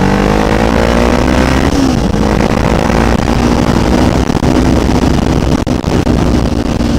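Kawasaki Ninja 500 parallel-twin engine pulling steadily in second gear up a hill, its pitch settling after a rise at the start and holding level, with a brief blip about two seconds in. A steady rush of wind and road noise runs under it.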